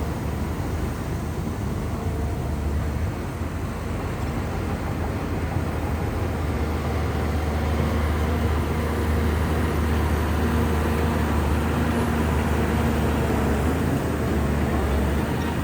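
Diesel engine of a large Shantui bulldozer running steadily, a little louder from about halfway through.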